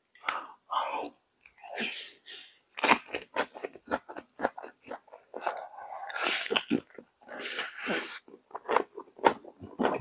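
Close-miked chewing of rice paper rolls stuffed with raw vegetables: irregular crisp crunches and wet mouth sounds, with a longer breathy hiss about seven seconds in.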